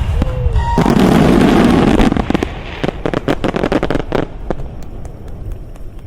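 Aerial fireworks: a dense volley of shell bursts and crackle, loudest about a second in, thinning to scattered bangs after about four seconds.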